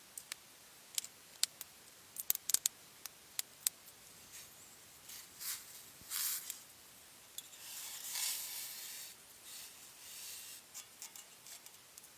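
A run of sharp clicks and snaps in the first few seconds, then several short scraping rustles, the longest about two-thirds of the way through.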